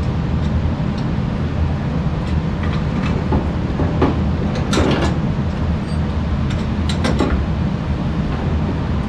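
Steady low mechanical rumble, with scattered sharp clicks and a few clanks of tools on metal gas-pipe fittings around the middle as the gas valve piping is worked on.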